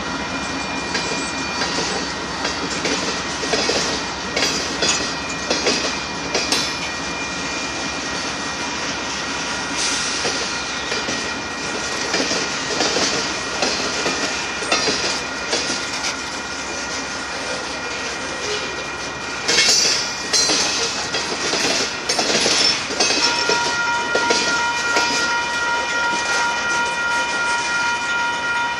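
Covered hopper cars of a freight train rolling past, their wheels clacking over rail joints amid a steady rumble and rattle. A steady high-pitched tone runs under it and grows stronger about two-thirds of the way through.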